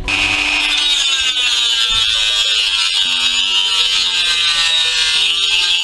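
A small high-pitched electric power tool running steadily, its pitch wavering slightly, over quiet background music; it cuts in suddenly at the start.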